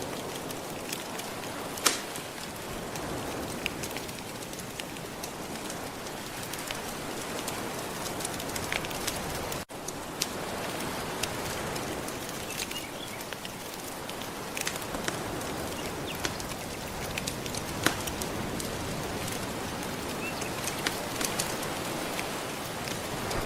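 Soft ocean waves making a steady wash, mixed with the crackle of a wood fire that gives irregular sharp pops, the loudest about two seconds in and near the end. The sound drops out for a split second near the middle.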